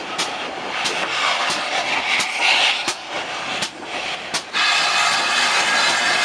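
A train running over rail joints, giving sharp clicks roughly every two-thirds of a second over a steady hiss. About four and a half seconds in, a louder, steady sound of many held tones starts and continues.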